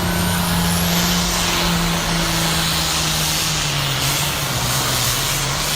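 Pulling tractor's engine running flat out under load during a tractor pull, a loud steady drone whose pitch drops slightly about four seconds in.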